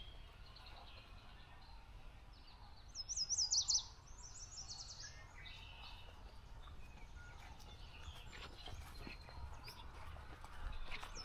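Songbirds singing: one bird gives a quick, loud run of high sweeping notes about three seconds in and again at the end, with fainter chirps from other birds in between.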